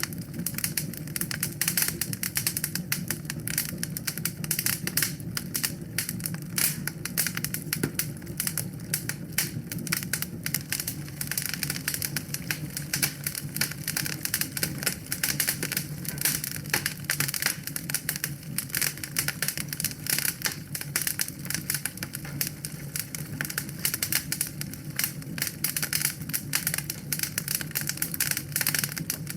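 Wood fire crackling in a fireplace: dense, irregular pops and snaps of burning wood over a low steady rumble.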